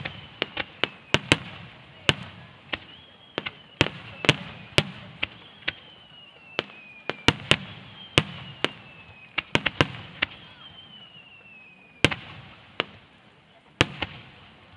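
Aerial firework shells bursting in quick succession: a rapid series of sharp bangs, at times several a second, with a high whistle that slides down in pitch again and again.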